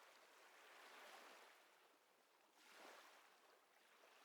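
Faint ocean waves washing in and receding, a soft hiss that swells about a second in and again near three seconds.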